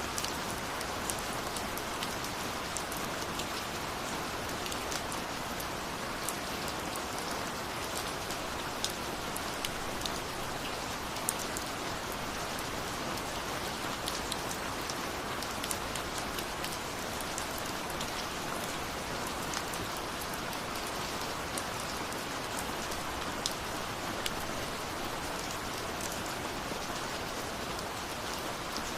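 Steady rain falling, with individual drops ticking sharply on a surface at irregular moments over the even hiss.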